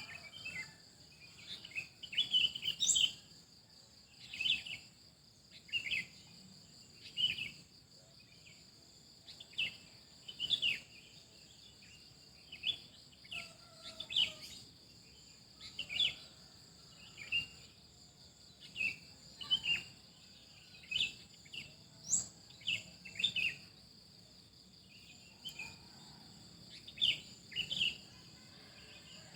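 Songbirds chirping in short calls about once a second, with an occasional quick rising whistle, over a steady high insect drone.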